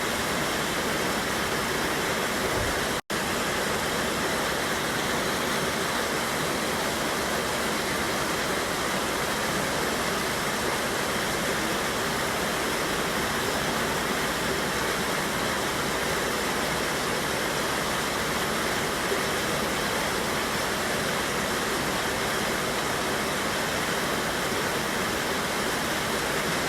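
A mountain river's waterfall rushing steadily over rocks, a constant roar of falling whitewater. The sound cuts out for an instant about three seconds in, then carries on unchanged.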